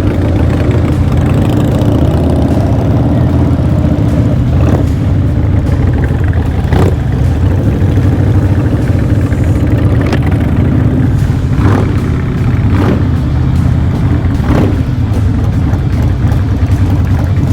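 Loud-piped Harley-Davidson Night Train V-twin engine running steadily, with a handful of short sharp cracks over it in the middle stretch.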